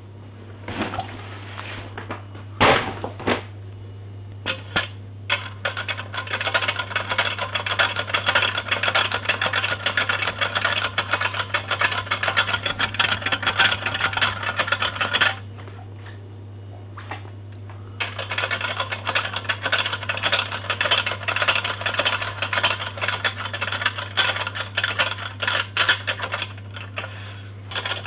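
Boomaroo toy washing machine running, its mechanism clattering rapidly like a typewriter, over a steady low hum. After a few separate clacks at the start, the rattle runs steadily, stops for a couple of seconds past the middle, and then starts again.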